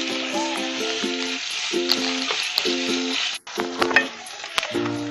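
Sliced onions and curry leaves sizzling as they fry in hot oil in a pan, with scattered clicks of stirring. The sizzle cuts off abruptly about three and a half seconds in and comes back fainter.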